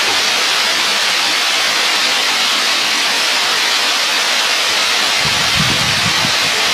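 Waterfall: a loud, steady rush of falling water, with a brief low rumble about five seconds in.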